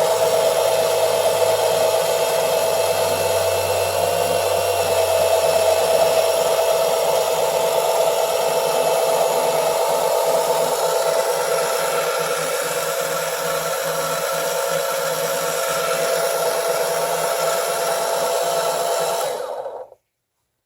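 12-volt oil extraction pump motor running steadily with a constant whine, drawing old engine oil out through the dipstick tube. It stops abruptly near the end.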